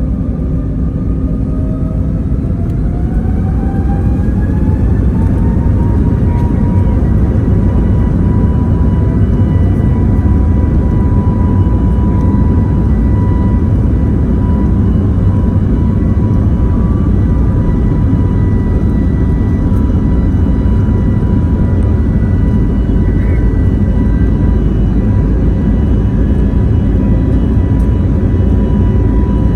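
Airbus A321neo's CFM LEAP-1A turbofan engines heard from inside the cabin, spooling up to takeoff thrust: a whine climbs in pitch over the first several seconds, then holds steady over a heavy rumble during the takeoff roll.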